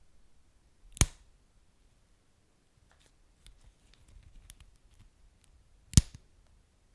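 Wood fire crackling: two sharp, loud pops about five seconds apart, with faint small crackles in between.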